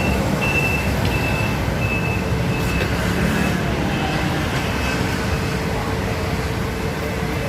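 Steady rumble of street traffic with a heavy vehicle running close by. A thin high tone comes and goes in the first few seconds, and a steady lower hum holds through the second half.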